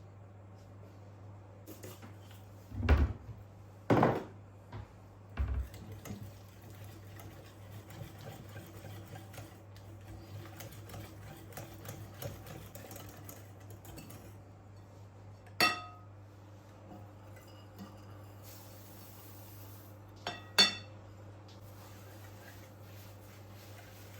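Kitchen dishes and utensils being handled: a few knocks and clatters in the first few seconds, then two sharp ringing clinks, one near the middle and one later.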